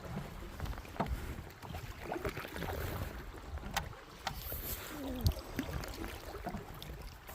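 Canoe paddling on a river: paddle strokes splashing over rumbling water, with a few sharp knocks against the fiberglass canoe.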